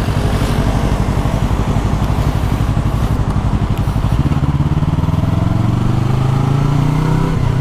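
Yamaha R3's 321 cc parallel-twin engine running under the rider, its revs climbing steadily from about four seconds in.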